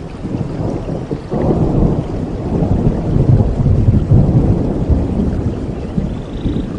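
Rain falling in a forest with a long roll of thunder, which swells suddenly about a second in and slowly rumbles away toward the end.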